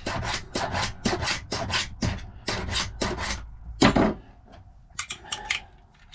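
Hand file rasping back and forth across the bit of a brass key blank in quick, even strokes, about three a second, while a lever safe key is cut to fit. The strokes stop about four seconds in, leaving a few light clicks.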